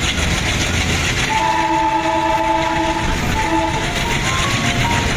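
Train horn sounding a long blast of about two seconds, then a short one, over the steady rumble of a train.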